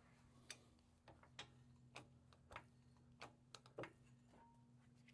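Near silence with about a dozen faint, irregular clicks and light taps, as of tools or metal parts being handled, over a low steady hum.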